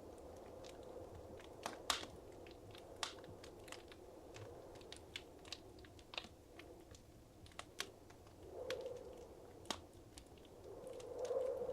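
Wood fire crackling in a fireplace: irregular sharp pops and snaps over a soft, steady rush of flame that swells briefly near the end.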